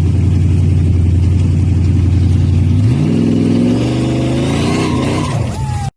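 Car engine running loud and steady, then revving up about three seconds in, its pitch rising and falling back before it cuts off suddenly.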